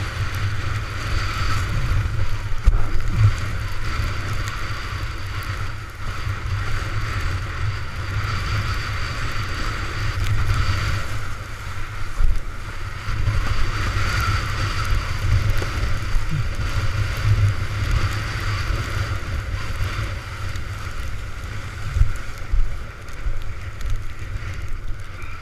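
Storm-force wind buffeting the microphone in gusts, with water rushing and splashing, during a windsurfing run.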